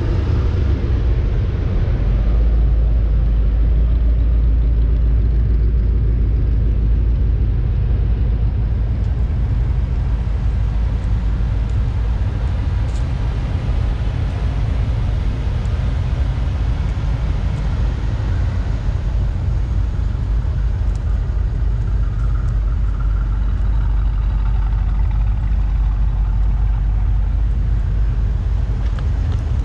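A car engine running steadily, a continuous low rumble.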